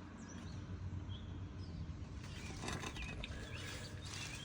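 Outdoor ambience with a few faint, short bird chirps over a low steady rumble, and a brief rustle about three seconds in.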